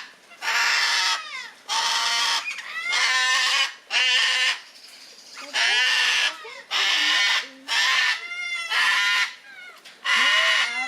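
Gang-gang cockatoo calling: a string of harsh, rasping calls, each about a second long, repeated every second or two, with shorter sliding whistled notes between them.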